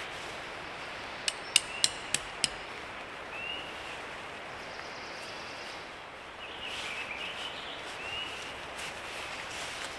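Five quick, sharp hammer-like strikes, about three a second, starting a little over a second in, over a steady outdoor background with faint short chirps.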